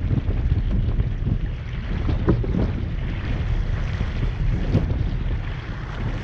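Wind buffeting the microphone over water washing along the hull of a small sailing dinghy under way, with a few short splashes.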